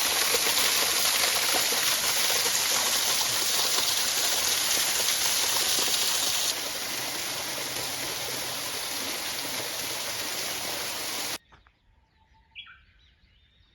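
Waterfall rushing as a steady, loud wash of falling water, dropping to a lower level about halfway through. Near the end it cuts off suddenly, leaving quiet with a few short bird chirps.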